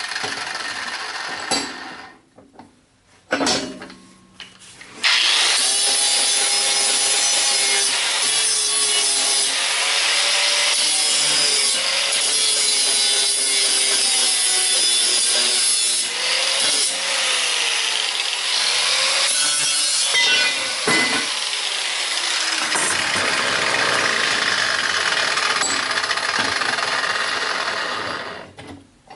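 Power grinder grinding the galvanized coating off the ends of steel pieces, its motor pitch sagging and rising under load. It stops about two seconds in, runs briefly once, then grinds again from about five seconds in until just before the end.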